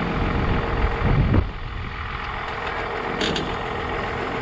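Farm tractor's diesel engine running steadily, swelling louder about a second in, with a short sharp knock a little after three seconds.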